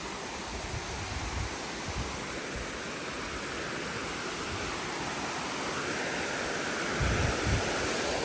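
Steady rush of flowing stream or waterfall water, growing slowly louder toward the end, with a few low thumps underneath.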